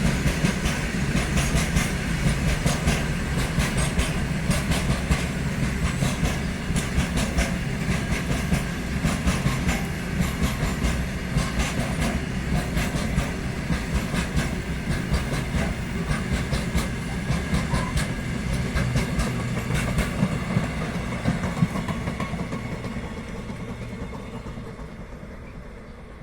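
Freight train wagons rolling along the rails, wheels clicking over rail joints with a steady low rumble. The clatter fades away over the last few seconds as the train moves off.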